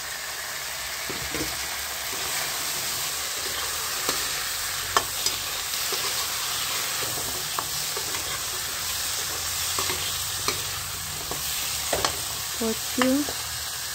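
Cut taro (kochu) pieces frying in masala in a metal kadhai, sizzling steadily while a steel ladle stirs them, with scattered sharp clicks and scrapes of the ladle against the pan.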